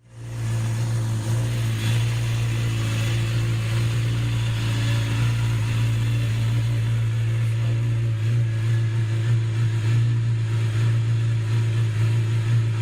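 Suzuki GSX-S1000's inline-four engine idling steadily through its exhaust, fading in just at the start.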